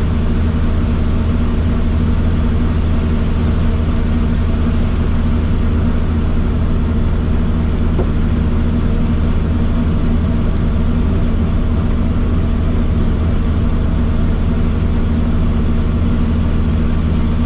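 Helicopter engine and rotor running, a loud steady drone with a strong low hum that does not change.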